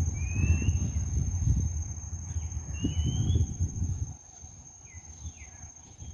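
Outdoor ambience with a low rumble on the microphone that stops about four seconds in. Over it a bird repeats a short rising whistle twice, and an insect keeps up a steady high-pitched drone.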